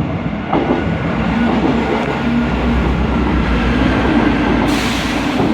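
Diesel passenger train running on the line with a steady low rumble, and a sudden hiss near the end.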